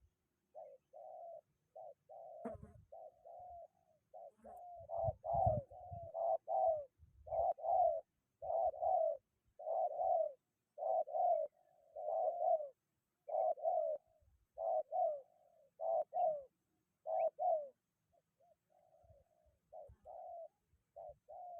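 Spotted doves cooing: a long, steady run of repeated low coos in quick succession. A few low thumps sound around the first few seconds.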